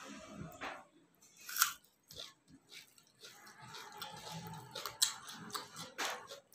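A person eating rice and curry by hand: wet chewing with lip smacks and sharp mouth clicks, the loudest about a second and a half in and others near five and six seconds.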